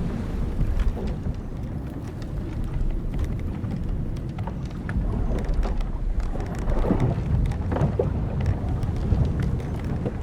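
Old wooden sailing ship at sea: a steady low rumble of wind and waves with scattered creaks and knocks from the hull timbers and rigging. A couple of louder creaks come about seven and eight seconds in.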